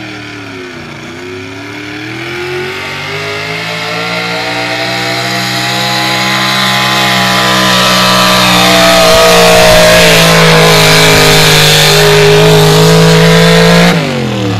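Modified gas pulling truck's big-block V8 at high revs under load on a pull: the revs dip about a second in, then climb and hold while the sound grows steadily louder, and near the end the engine drops off sharply as the throttle is let off at the end of the run.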